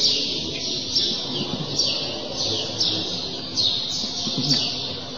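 Bird chirping repeatedly, with short high calls that fall in pitch, about two a second.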